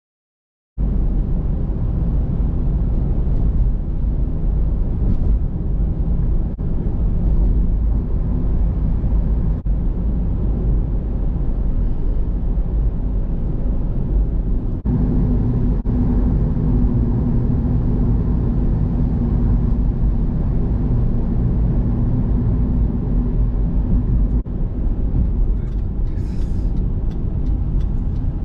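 Steady low road and engine noise of a car driving.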